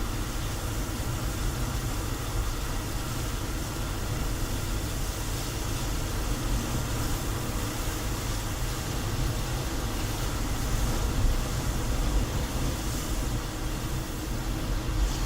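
Steady road and engine noise of a moving car heard from inside the cabin: a constant low rumble with tyre hiss over it.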